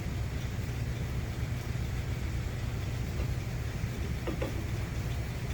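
Metal lathe running steadily with a low, even hum, and a couple of faint light clicks about four seconds in.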